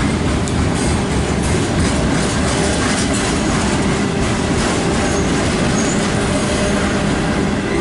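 Loaded autorack freight cars rolling past close by: a steady, loud rumble of steel wheels on the rails, with faint clicks of wheels over the rail joints.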